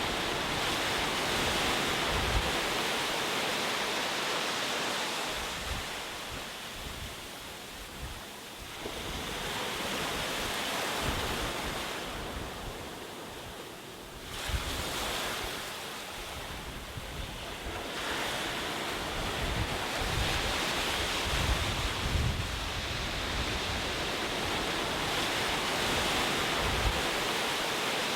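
Ocean surf: waves breaking and washing up, the rush swelling and fading every several seconds, with one sharp surge a little past halfway. Low gusts of wind buffet the microphone underneath.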